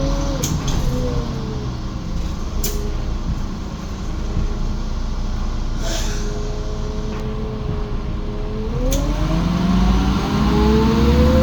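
Menarinibus Citymood 12 CNG city bus driving, its engine running with a whine that rises and falls in pitch. About nine seconds in, the engine picks up and the whine climbs steadily as the bus accelerates. A few sharp clicks or rattles come along the way.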